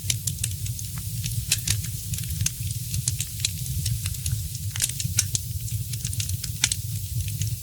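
Wood fire crackling in a fireplace: a steady run of sharp pops and snaps, a few louder ones around a second and a half, five seconds and six and a half seconds in, over a constant low rumble and hiss.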